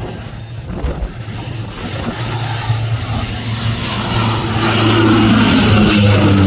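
Airplane flying past, its engine noise growing louder about four seconds in, with steady low engine tones under a spread of rushing noise.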